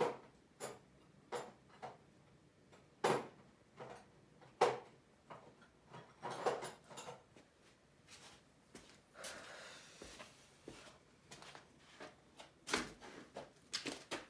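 Ratchet and socket working the small fuel-tank mounting bolts on a dirt bike: scattered metal clicks and knocks at an irregular pace, with a short scraping noise about nine seconds in.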